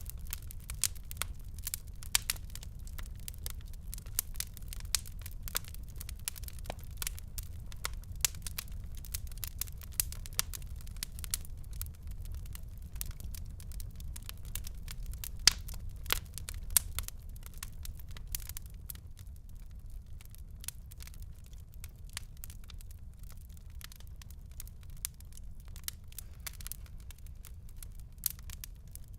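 Wood fire crackling in a fireplace: a dense run of small sharp pops and snaps over a low steady rumble, thinning out somewhat about two-thirds of the way through.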